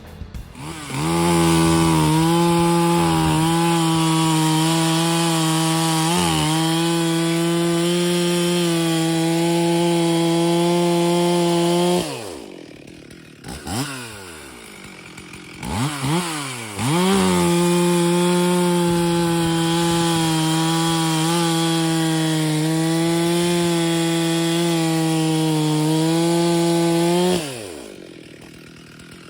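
70cc Stihl professional chainsaw with a 25-inch bar, run at full throttle through wood in two cuts of about ten seconds each. The engine pitch holds steady under load during each cut. It drops back to idle between and after the cuts, with a couple of quick revs in the gap.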